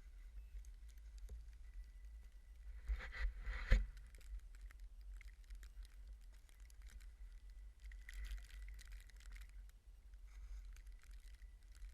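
Wind buffeting a GoPro's microphone in a blizzard, a steady low rumble with scattered crackles and rustles, and one sharp knock about four seconds in.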